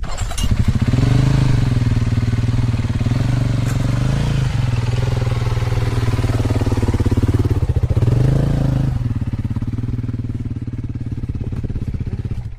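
Off-road motorcycle engine running under throttle, its pitch rising and falling several times as it is revved up and eased off, then cutting off suddenly.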